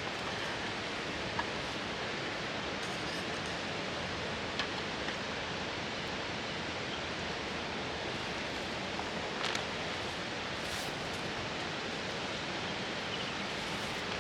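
A steady, even rushing noise, with a few faint light clicks and taps on top of it.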